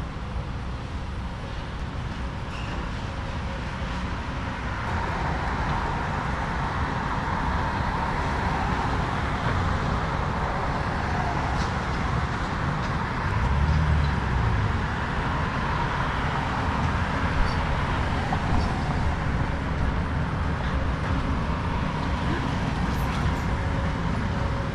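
Excavator's diesel engine running steadily under load while it tears down a house, a continuous low rumble that grows louder about five seconds in and briefly swells about fourteen seconds in.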